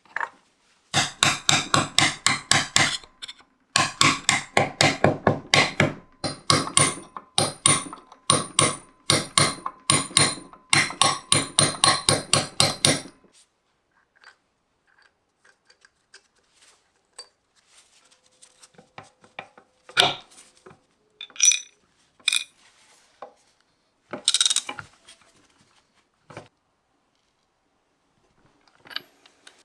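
Hammering in quick, regular strokes, about five a second, that stops after about twelve seconds. Scattered knocks and clinks of tools being handled follow.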